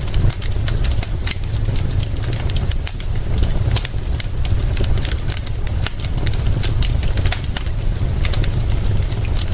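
Wood fire crackling, with many quick sharp pops and snaps over a steady low rumble and hiss.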